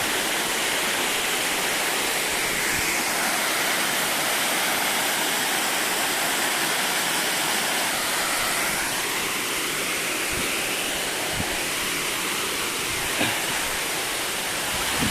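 Waterfall running: a steady rush of falling water, with a light knock about thirteen seconds in.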